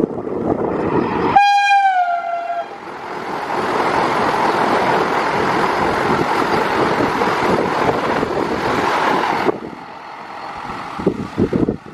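Vande Bharat Express electric trainset sounding its horn once, for about a second, with the pitch dropping as it passes. Then comes the loud, steady rush of the train going by at about 177 km/h, which cuts off suddenly near the end to a fainter windy rumble.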